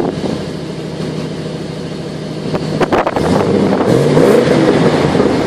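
Holden VS wagon's V8 engine and exhaust idling, then revved once about three seconds in, the pitch climbing and falling back, with a few sharp clicks just before the rev.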